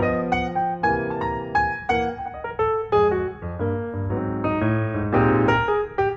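Background piano music: a gentle melody of struck notes over a steady bass.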